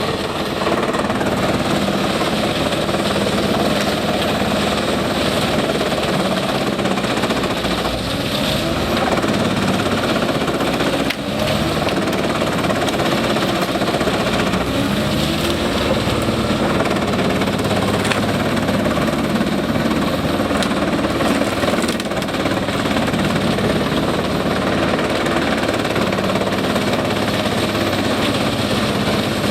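Industrial Gandini Meccanica wood chipper driven by a Scania diesel engine, running loud and steady while chipping wood. Its dense rattling clatter sits over the engine's drone.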